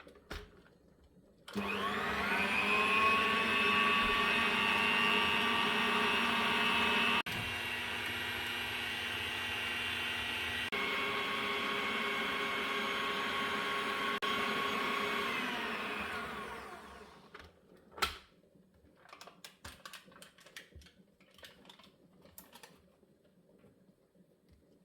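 Small electric kitchen appliance motor starting with a rising whine about a second and a half in, running steadily with two shifts in pitch, then winding down. A sharp click follows, then small clatters.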